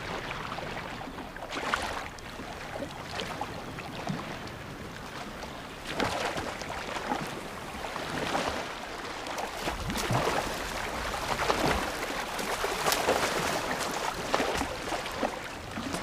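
Sea water splashing and sloshing, with many short splashes that grow busier about halfway through.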